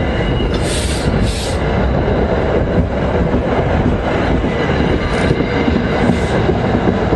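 A passing commuter train: a steady, loud rumble and rattle of wheels on the rails, with a few short, high hissing bursts about a second in and again near five and six seconds.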